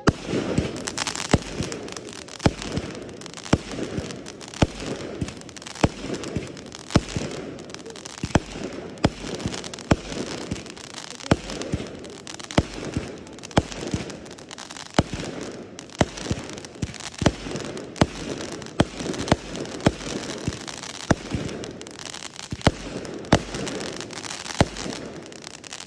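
Aerial fireworks display going off in a steady barrage: continuous crackling with sharp bangs about one to two times a second.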